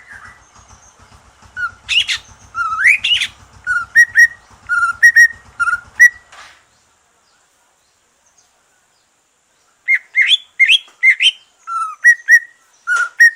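Green leafbird (cucak ijo) singing: quick series of short, rising whistled notes, repeated several times. The bird falls silent for about three seconds in the middle, then starts again.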